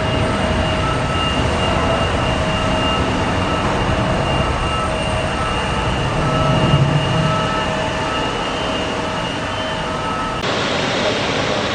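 Jet airliner engines running steadily: a broad, even roar with a faint whine over it. The sound changes abruptly near the end.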